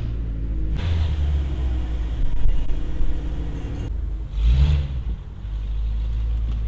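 Car engine running at low speed as the car pulls up and parks, a steady low rumble that swells briefly about four and a half seconds in.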